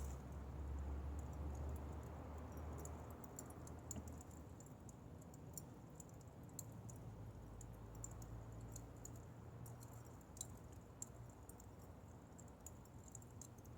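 Firewood fire crackling faintly: irregular small snaps and pops from the burning wood. A low rumble under it dies away in the first few seconds.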